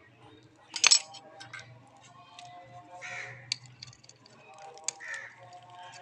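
Tools working on a motorcycle chain: a loud sharp metallic scrape about a second in, then a few separate metal clicks, with two short harsh calls in the background.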